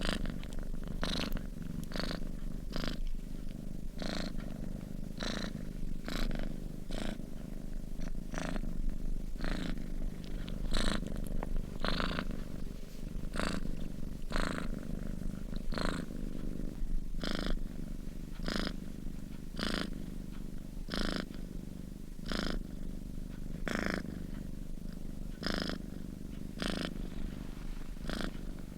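Sleeping domestic cat purring steadily, the purr swelling in regular pulses about every three-quarters of a second with its breathing.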